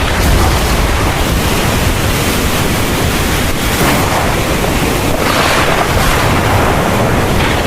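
Heavy thunderstorm rain pouring steadily, a dense even hiss that swells briefly about five seconds in.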